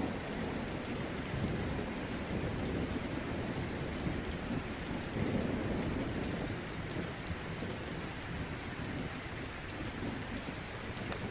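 Steady rain with low rolling rumbles of thunder that swell about five seconds in, and scattered sharp crackles throughout.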